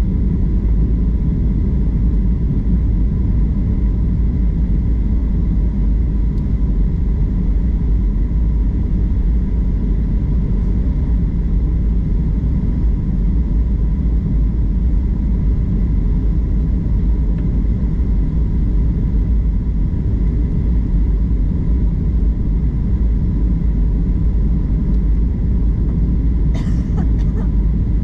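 Steady low rumble of airliner engines and airflow heard from inside the passenger cabin during descent, with a faint steady whine above it. A brief rustle or click near the end.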